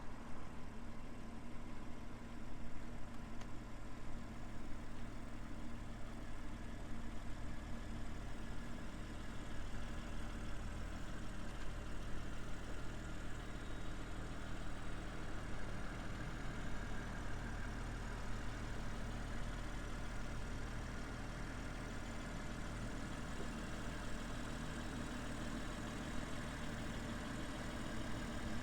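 BMW M340i's 3.0-litre turbocharged inline-six idling steadily.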